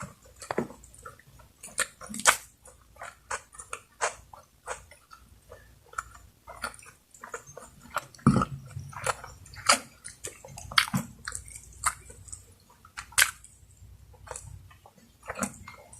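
Close-miked eating: chewing and mouth smacking in quick, irregular clicks, with a few sharper, louder smacks.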